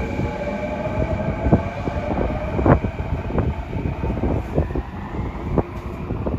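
Electric train running, its motor whine falling in pitch as it slows, with many sharp clicks and knocks from the wheels and running gear.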